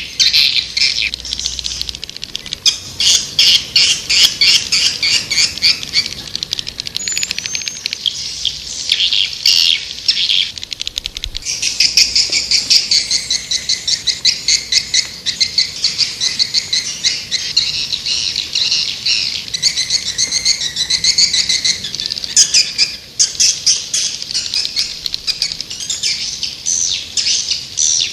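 White-nest swiftlet calling sound: dense, rapid high twittering chirps from many birds in repeated bursts. This is the call recording played to lure swiftlets to roost and nest.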